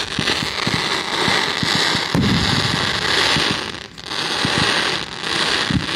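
Aerial fireworks display: a dense, continuous crackle with many low thumps from bursting shells. It drops away briefly about four seconds in.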